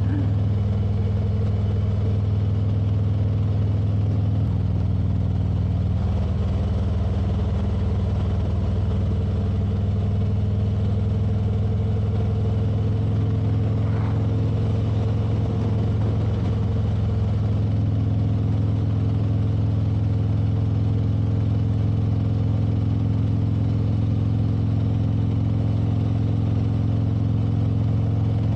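Motorcycle engine running at a steady cruising speed, its note holding even throughout, under a constant rush of road and wind noise.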